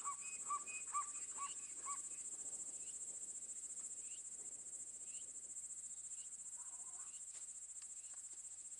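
Steady, high-pitched chirring of an insect chorus, crickets by the sound of it. Over it, another animal gives a repeated call at about two notes a second that stops about two seconds in, followed by a few faint scattered chirps.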